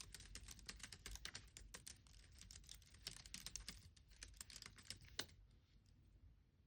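Faint typing on a computer keyboard: a quick, uneven run of keystrokes that stops a little over five seconds in.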